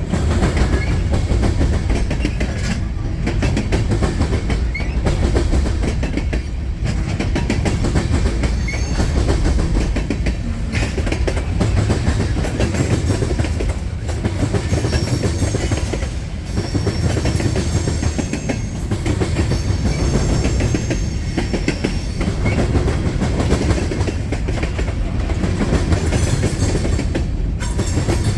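CSX work train rolling past slowly with its cars: a steady rumble and the clickety-clack of wheels over the rail joints, with faint high wheel squeals at times.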